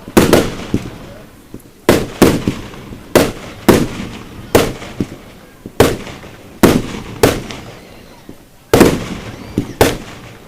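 Aerial fireworks bursting in a display: a steady series of sharp bangs, one every half second to a second or so, each trailing off before the next.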